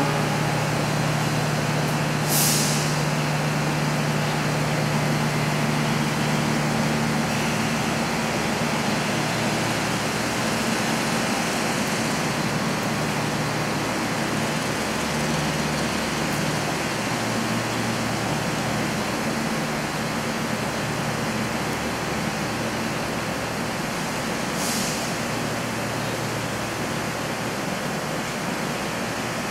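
Steady rumble of a passenger train moving slowly along a station platform, with a low engine hum. Two short hisses of air sound, one about two seconds in and one near the end.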